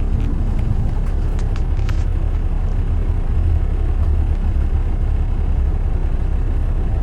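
Steady low rumble of road traffic, with a few faint clicks in the first two seconds.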